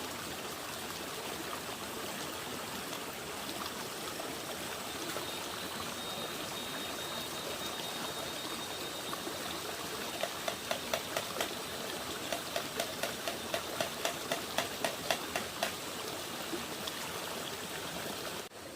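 Steady rushing noise like running water. About ten seconds in, a quick run of sharp taps, about five a second, comes in for some five seconds.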